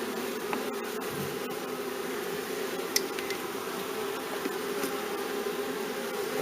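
A honey bee swarm buzzing steadily, the massed hum of many bees, with one short tick about three seconds in.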